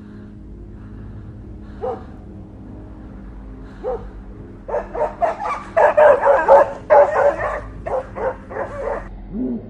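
A dog barking: single barks every two seconds or so, then a fast, louder run of barks from about halfway through, over a faint steady hum.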